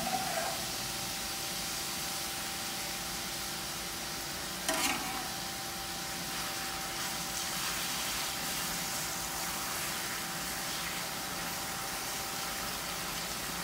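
Marinated beef sizzling steadily in a hot oiled skillet with sauce cooking in, stirred with a spatula. A brief louder sound comes about five seconds in, and a faint steady tone runs underneath.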